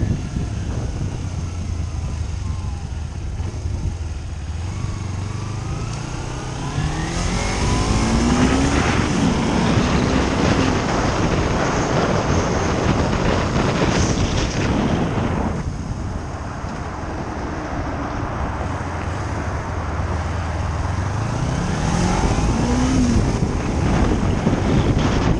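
Motor vehicle engine running over road noise, its pitch climbing as it speeds up twice, about six seconds in and again near the end.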